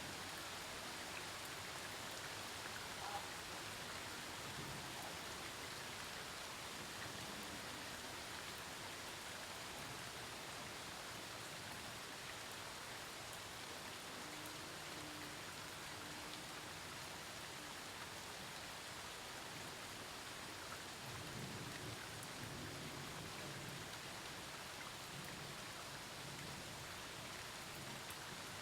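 Steady rain from a thunderstorm falling on surfaces, with a low rumble of distant thunder about three-quarters of the way through.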